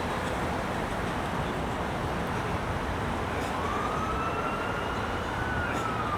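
Steady rush of wind and water noise, with a faint siren wail that comes in a little past halfway, rises slowly, then starts to fall near the end.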